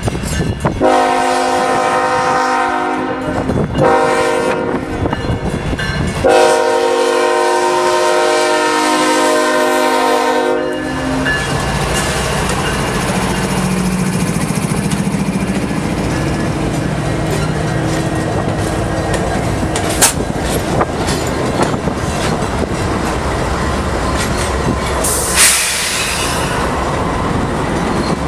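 Freight train's diesel locomotive air horn sounding a chord in long blasts for about the first ten seconds as it approaches. Then the trailing diesel locomotives pass close by with a steady engine rumble and wheels clicking over the rail joints, with a sharp click about twenty seconds in and a brief hiss near the end.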